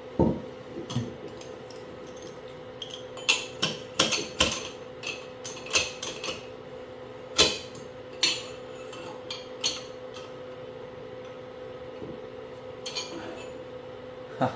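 Steel seal driver being tapped with a hammer, a dozen or so irregular sharp metallic taps, driving a new seal into the Toyota steering rack housing, over a steady background hum.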